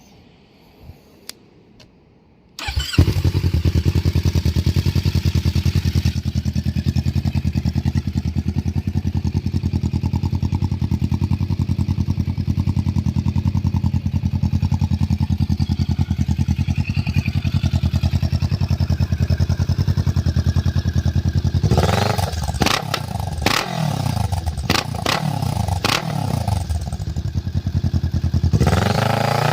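Kawasaki Ninja 650's parallel-twin engine starting about three seconds in and idling steadily, then revved up and down several times near the end, with a few sharp cracks among the revs.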